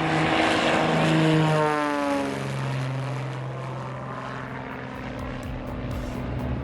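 A propeller-driven light airplane passes by with its engine running. The engine is loudest about a second in, its pitch drops sharply as it goes past around two seconds in, and it then carries on at a lower, steady pitch as it moves away.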